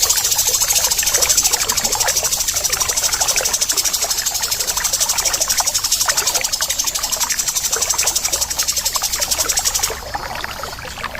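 Bird giving a continuous, fast, harsh rattling call, a dense run of rapid ticks, which eases off briefly near the end.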